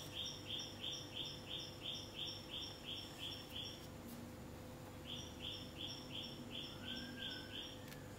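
Faint bird chirping: a rapid, even run of short identical chirps, about four a second, that breaks off for about a second midway and then resumes. A faint steady hum lies underneath.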